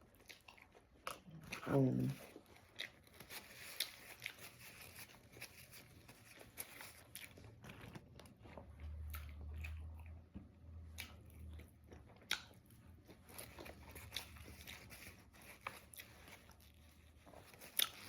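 Close-up chewing and biting of food, with scattered small crunches. A brief vocal sound about two seconds in.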